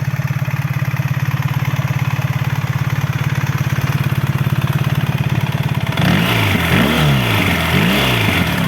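BMW R1300GS boxer-twin engine through its stock exhaust, idling steadily, then revved in several quick throttle blips starting about six seconds in, its pitch rising and falling with each one.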